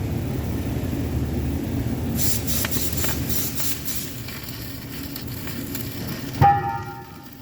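Welding arc crackling and hissing for a few seconds over a low steady rumble, then a single sharp metal clang that rings on briefly near the end.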